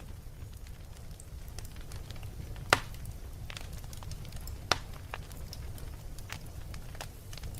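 Wood fire crackling in a fireplace: a low steady rumble of the flames with scattered small crackles, and two loud pops of burning wood, a little under three seconds in and again about two seconds later.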